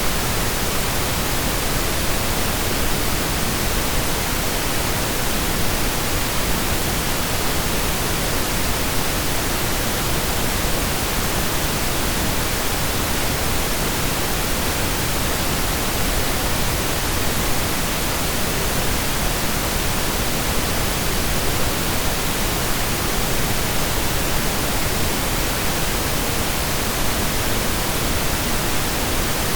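Steady, synthesized pink noise: an even hiss spread across the whole range of hearing, with no changes or events.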